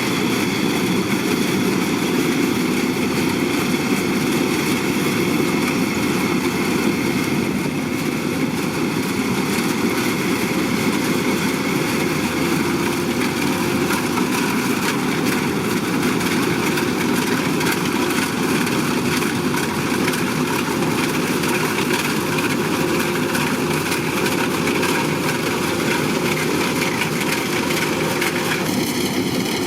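Kubota DC-105X combine harvester running steadily, a dense, even engine and machinery noise; the sound shifts slightly near the end.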